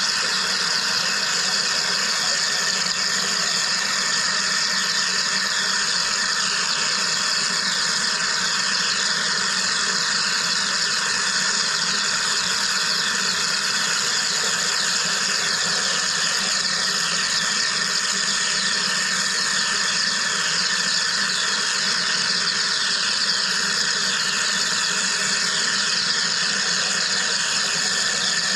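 Wire EDM machine running steadily: an even high hiss with a fine, rapid crackle and several steady whining tones, unchanged throughout.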